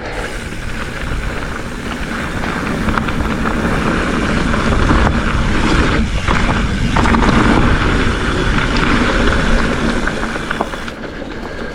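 Hardtail mountain bike rolling along dirt singletrack, with tyre noise and light rattles and wind rushing over the camera microphone, getting louder between about four and ten seconds in.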